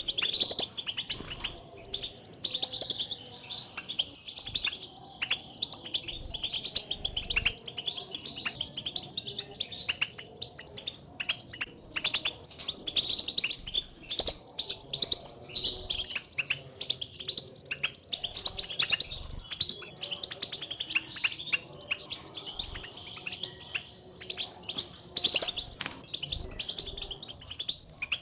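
European goldfinches giving rapid, overlapping chattering contact calls rather than full song: the calls goldfinches use to call to one another and signal where they are.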